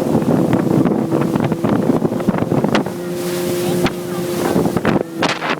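Motorboat engine running steadily, with wind buffeting the microphone and frequent short sharp knocks throughout.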